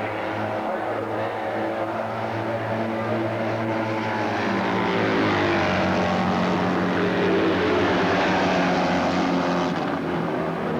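Racing motorcycle engines running, their note stepping up in pitch partway through and the sound growing louder in the second half as a machine comes closer.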